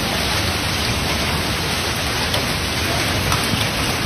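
Torrential rain pouring down in a steady hiss, with a couple of faint sharp ticks about two and three seconds in.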